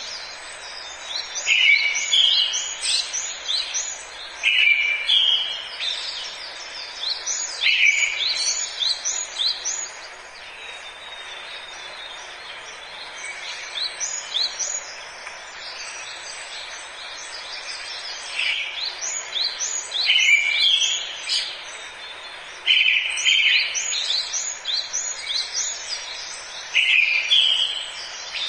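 Forest birdsong: a songbird repeats short phrases of quick, high chirping notes, each phrase opening on a lower note, every few seconds. The song thins out for a while in the middle and picks up again. A steady background hiss runs underneath.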